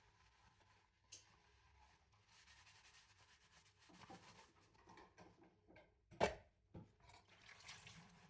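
Faint rubbing and scraping of dishes being washed by hand, with a few light clinks; the loudest, a sharp knock of dishware, comes about six seconds in.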